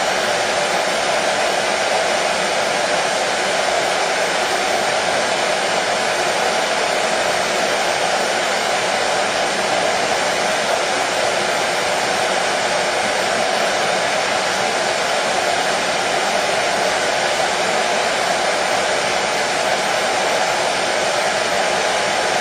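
Hair dryer running steadily: a constant, unchanging whoosh of blown air with a strong mid-pitched hum in it.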